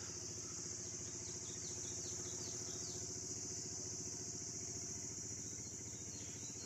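Steady high-pitched insect chorus, crickets, with a low steady engine hum beneath it like a motor idling, and a few faint short chirps.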